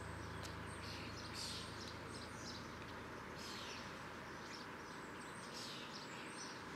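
Faint outdoor ambience: scattered short bird chirps over a quiet background hiss, with a low hum fading out over the first few seconds.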